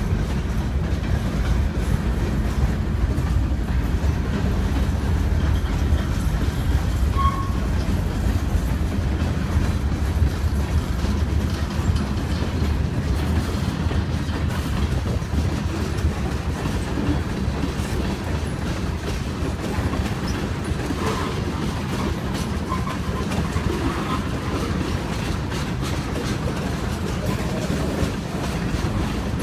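Long freight train of hopper and tank cars rolling steadily past at a grade crossing: a continuous low rumble with the clickety-clack of wheels over the rail joints.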